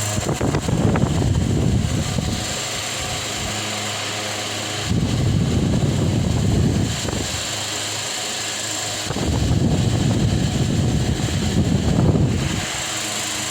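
Delta Gold 50 cm four-blade wall fan running with a steady motor hum; three times its air stream hits the microphone as louder rumbling gusts, each lasting two to three seconds.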